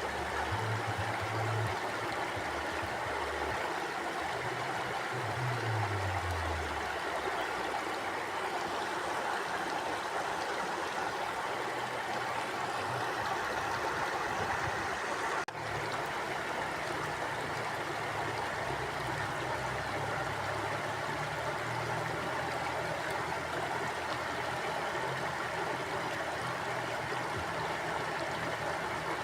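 Mountain stream flowing over rocks: a steady rushing and burbling of water, with a brief drop in level about halfway through.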